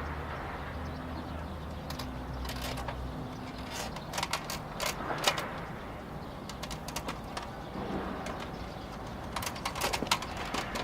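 Freight train passing: the low hum of the DD51 diesel locomotives fades after about four seconds. Clusters of sharp clacks from the tank wagons' wheels crossing rail joints follow, one about four to five seconds in and another near the end.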